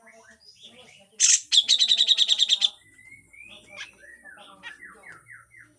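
Cucak jenggot (grey-cheeked bulbul) calling: a loud harsh burst about a second in, then a fast rasping rattle of about ten notes a second lasting about a second, the rough 'besetan' call. Quieter whistled glides follow, and a short run of rising notes comes near the end.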